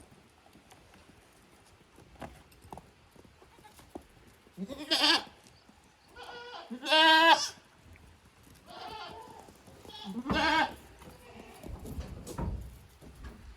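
Goats bleating: about five calls, the loudest a long quavering bleat about seven seconds in, with faint clicks earlier.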